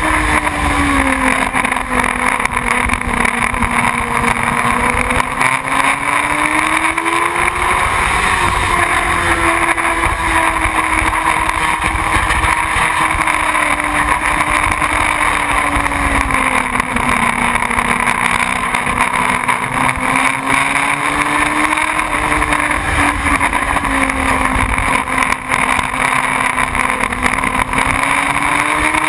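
Motorcycle engine running steadily, its pitch slowly rising and falling every several seconds, over a constant rushing noise.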